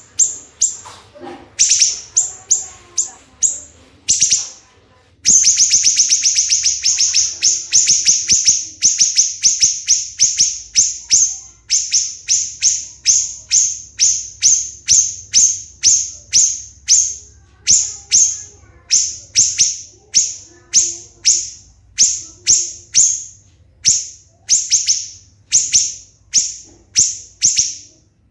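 A songbird singing a long series of sharp, high repeated chirps: a rapid run of notes starting about five seconds in, then evenly spaced chirps about two a second.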